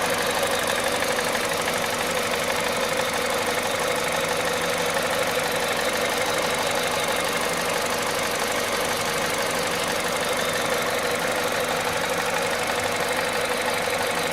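Peugeot/Citroën 1.6 VTi 120 four-cylinder petrol engine running steadily from cold at 98,500 km, with an even, rapid mechanical clatter: the cold-engine noise the owner is flagging.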